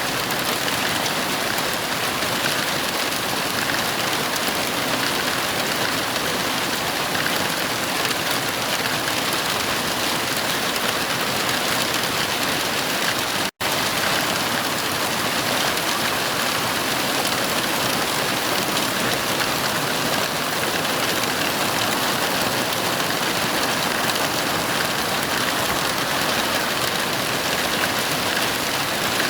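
Heavy rain falling in a steady, even hiss, with a split-second cut to silence about halfway through.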